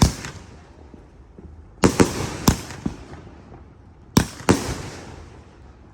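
300-shot firework cake firing: sharp bangs, about four in quick succession around two seconds in and two more about four seconds in, each trailing off in an echo.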